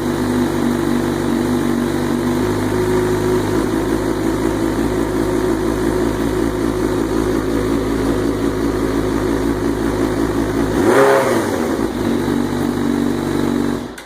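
2004 Suzuki GSX-R inline-four motorcycle engine idling through its exhaust, with the exhaust insert piece fitted for a higher-pitched note. One quick blip of the throttle about 11 seconds in, and the sound stops abruptly near the end.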